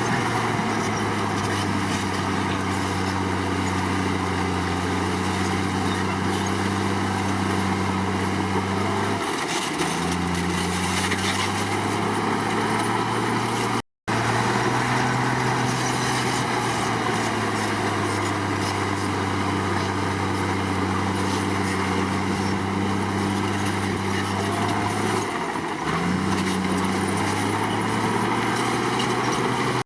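Komatsu D53 crawler bulldozer's diesel engine running steadily under load. Its note dips and picks back up twice, about a third of the way in and again near the end, with a very short dropout to silence midway.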